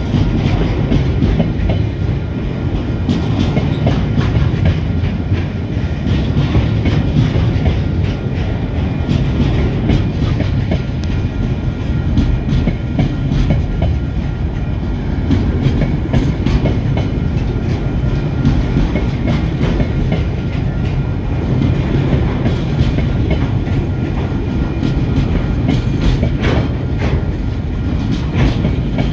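Container flat wagons of a freight train rolling past close by: a steady, loud rumble of steel wheels on the rails, with frequent sharp clacks from the wheels.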